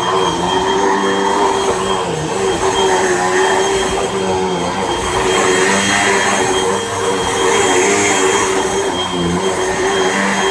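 Hoover WindTunnel Rewind Bagless upright vacuum cleaner running on a rug: a steady motor whine over the rush of suction, swelling and dipping slightly in level.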